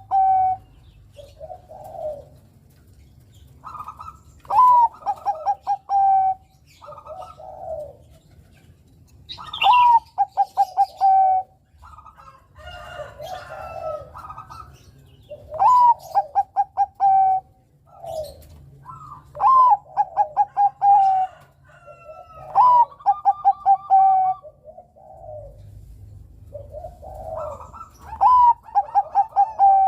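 Zebra dove (perkutut, Bangkok type) singing its cooing song. Each phrase starts with a rising note and runs into a quick string of stuttering coos, repeated about every three to four seconds, with softer calls in between.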